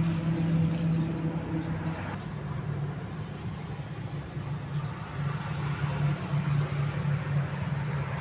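An engine running steadily with a low droning hum; its pitch drops slightly about two seconds in.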